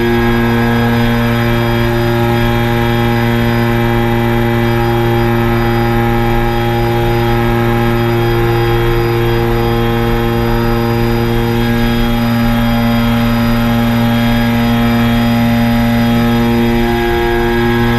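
Multirotor drone's motors and propellers humming steadily at a near-constant pitch, with only slight wavering in tone.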